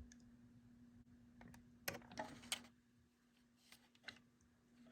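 Near silence: a few faint, short clicks about two seconds in and twice more near the end, over a faint steady hum.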